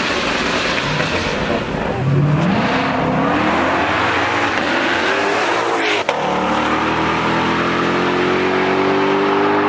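A car engine accelerating hard. Its pitch rises about two seconds in, drops out briefly near six seconds, then climbs steadily again.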